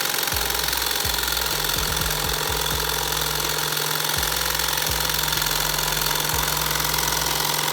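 High-speed Stirling engine with an epoxy piston running steadily at about 1,300 RPM, a fast, even mechanical running sound.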